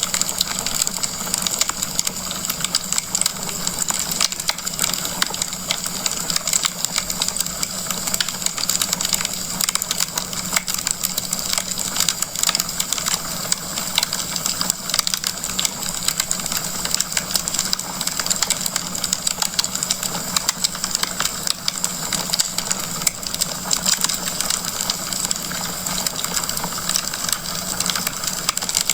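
Wood fire crackling steadily: a dense, irregular stream of small cracks and pops over a constant hiss.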